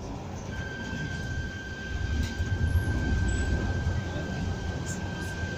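Suburban electric train running, heard from inside the carriage: a low rumble of the car on the track, with a steady high whine that starts about half a second in.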